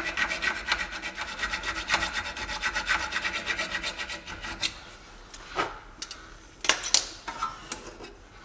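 Hacksaw cutting through a seized steel nut on a car's steering link joint, in rapid, even back-and-forth strokes. About halfway through the strokes stop, and a few separate strokes follow.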